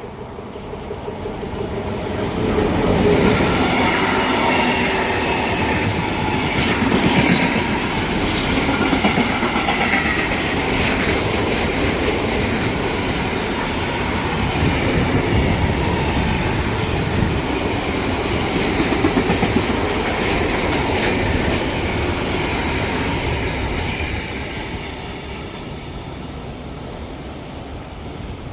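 A train passing close by, its wheels rumbling and clattering over the rails. It builds up over the first few seconds, holds for about twenty seconds and fades away near the end.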